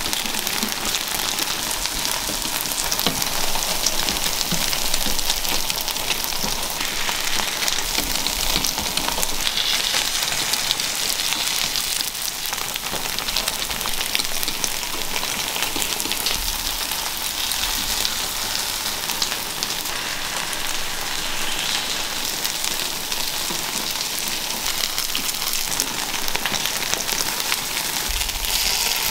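Takoyaki batter sizzling and crackling in hot oil in the wells of a cast-iron takoyaki pan, a steady hiss, with light clicks of metal picks against the pan as the balls are turned.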